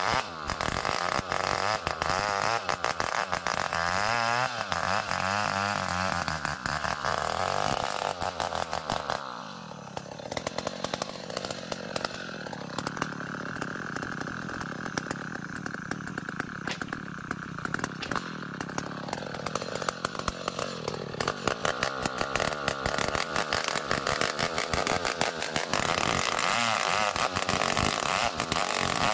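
Two-stroke chainsaw running and cutting ulin ironwood, its engine note rising and falling. About a third of the way in, the engine drops to a softer, lower note for some ten seconds, then picks up again.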